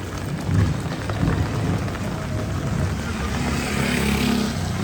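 A motor vehicle passing close by on the street: a low engine hum builds, with a hiss that swells to its loudest about four seconds in.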